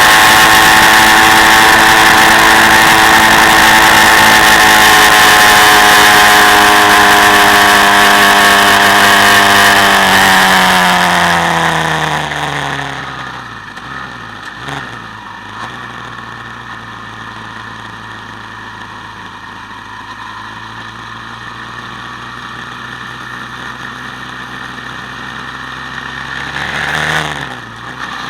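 Quad bike engine running at steady high revs, then slowing down over a couple of seconds about ten seconds in and settling to a much quieter idle. Near the end the revs dip and then climb again.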